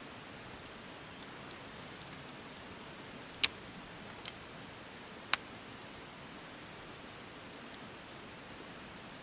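Steady rain falling in the forest, an even hiss. About three seconds in, three sharp taps stand out over it within two seconds, the first and last much louder.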